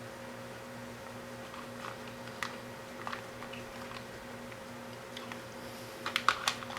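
Faint scattered clicks and taps of wires and small parts being handled, over a steady low electrical hum, with a quick run of sharper clicks near the end.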